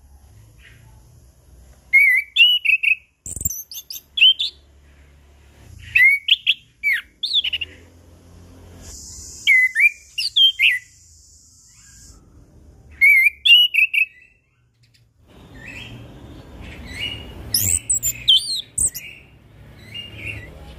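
Chestnut-capped thrush (anis kembang) singing in short, loud bursts of quick whistled notes that swoop up and down, repeated every couple of seconds. A steady high hiss sits under the song around the middle.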